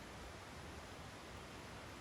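Steady faint hiss of background noise with no distinct events.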